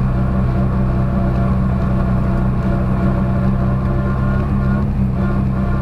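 Lada 2107 rally car's tuned 1.6-litre Béreš engine running at steady, low revs with an even, unchanging pitch, heard from inside the cabin.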